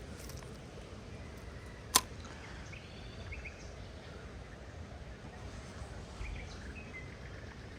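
Outdoor ambience with a low rumbling background and faint, scattered bird chirps. A single sharp click about two seconds in is the loudest sound.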